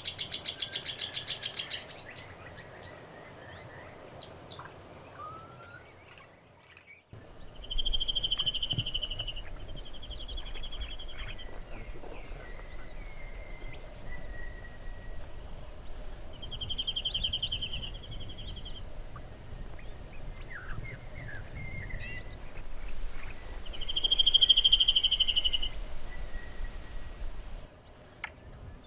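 Wild birds calling: repeated buzzy trills, each about a second long, among many short chirps and whistles.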